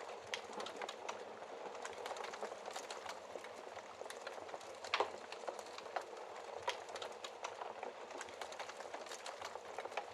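Wood fire in a fireplace crackling: a steady hiss with many small irregular pops and snaps, and a louder pop about five seconds in.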